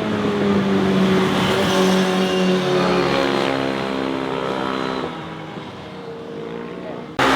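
Motorcycle engine passing close by, its note falling and fading as it rides away. Just before the end the sound jumps suddenly to another loud engine.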